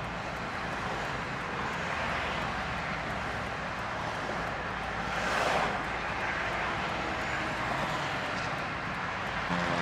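Steady road traffic noise, with one vehicle passing more loudly about five and a half seconds in.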